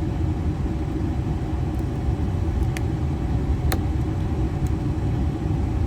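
Steady low rumble inside the cab of a 2016 Ford F350 with its 6.7 L Power Stroke V8 diesel idling and the air conditioning running, with two light clicks about three and four seconds in.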